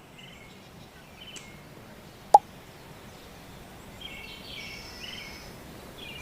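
Steady outdoor background noise with small birds chirping, a run of chirps near the end, and one sharp click about two seconds in.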